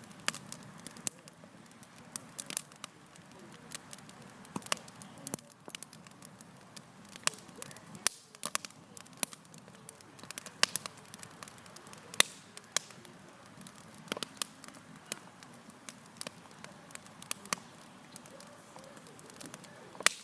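Wood campfire crackling: irregular sharp pops and snaps, a few each second, over a faint steady low hiss.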